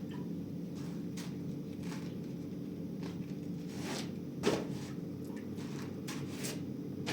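Scattered light knocks and clatters of household handling over a steady low hum; the loudest knock comes about four and a half seconds in.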